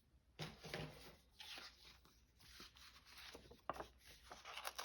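Paper being handled: soft rustling and sliding of folded journal pages, with a few light taps and clicks near the end.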